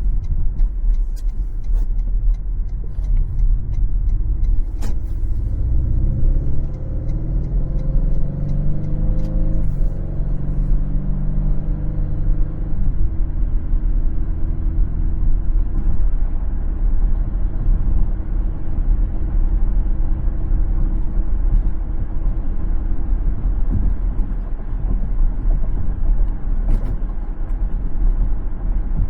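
Car road noise, a steady low rumble of tyres and engine. From about five seconds in, an engine rises in pitch as it accelerates, then holds steady and fades back into the rumble a few seconds later, with a few faint clicks along the way.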